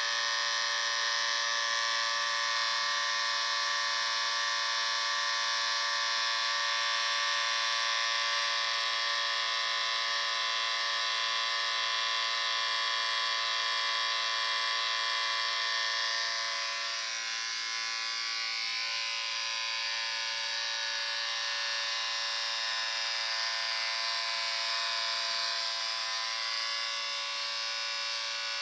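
Electric shaver running with a steady buzz. About halfway through, its tone wavers briefly and it turns a little quieter, then it keeps running.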